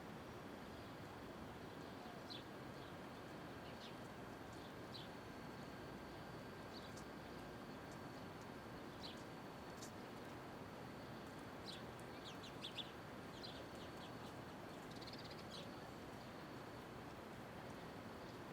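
Faint city street ambience: a steady hum of distant traffic with scattered short, high bird chirps, busiest around the middle and again near the end.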